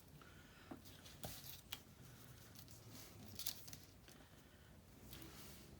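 Faint handling of paper and craft supplies on a table: a few soft taps and light scuffing at irregular moments over quiet room tone.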